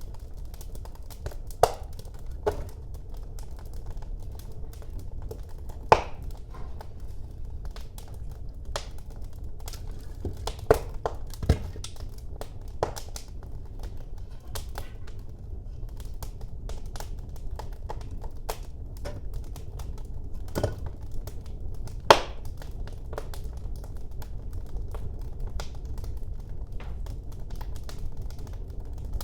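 Wood fire burning in a fireplace: a steady low rumble of flames with irregular crackles and sharp pops, a few of them loud.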